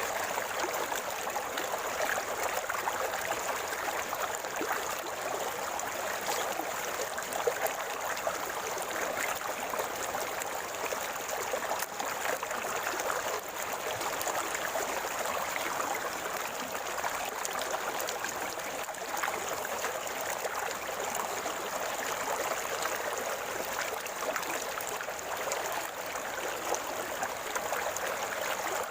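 Shallow river water running and gurgling over stones: a steady rush with fine bubbling detail.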